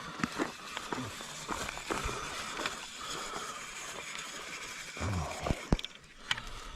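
Outdoor background hiss with scattered light clicks and knocks, and a short low falling sound about five seconds in followed by a sharp click.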